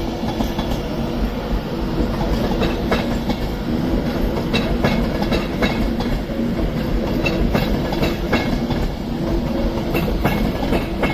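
Class 390 Pendolino electric train pulling away. Its wheels click irregularly over rail joints and points over a steady hum and rumble.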